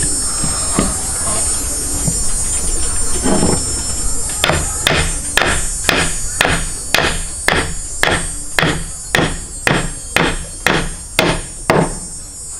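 A run of about fifteen sharp knocks at an even pace of about two a second, like repeated hammer blows. They start about four seconds in and stop shortly before the end, over a steady low background rumble.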